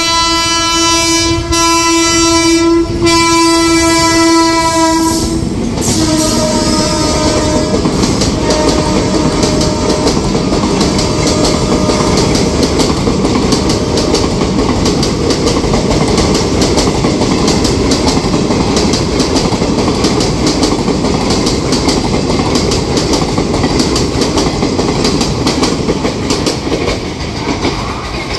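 Indian Railways express train passing at speed: the locomotive's horn sounds one long blast of about five seconds, broken briefly twice, then the passenger coaches roll by with a steady wheel rumble and rapid clatter over the rail joints.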